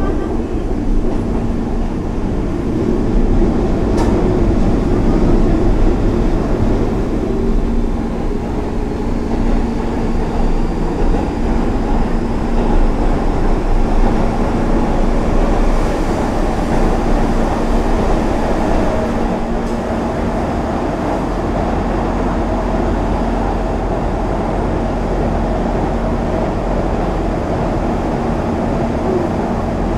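Cabin noise of a Hanshin Railway express train running on the line: a steady rumble of wheels on rail with a steady hum. It grows louder for several seconds in the first half as another train passes close by on the next track.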